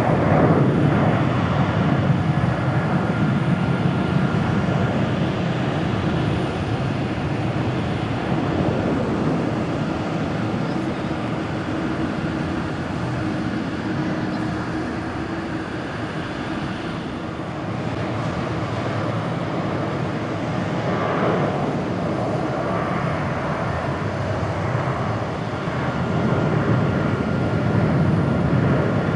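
Boeing 737-800 airliners' CFM56-7B turbofan engines at takeoff thrust: the engine noise of one departing jet eases off a little past the middle, then grows louder again toward the end as the next 737-800 starts its takeoff.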